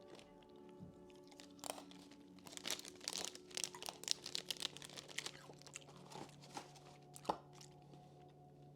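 Crisp, crunchy snack being chewed close to the microphone: a run of sharp, faint crunches, thickest in the middle.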